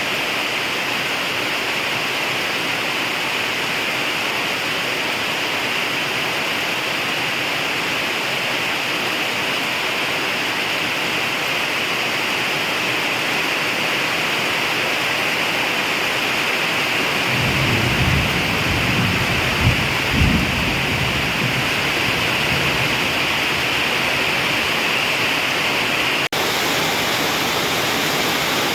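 Heavy rain pouring steadily. A bit past halfway a low rumble of thunder comes in for several seconds, with two sharper jolts in it.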